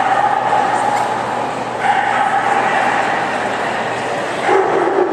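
A puppy whining in long, steady, drawn-out whines, one after another with barely a break. The last whine, near the end, is lower in pitch.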